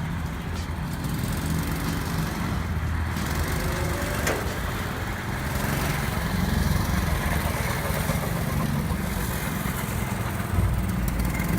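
Go-kart's small engine running steadily, a low hum whose level wavers a little.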